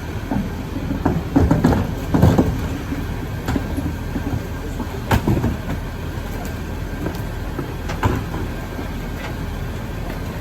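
Garbage truck engine running steadily, with a series of sharp metallic clanks and knocks, the loudest in the first few seconds.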